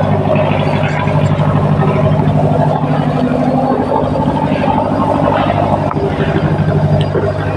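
A boat's engine running steadily: a low, even drone with a fast regular pulse.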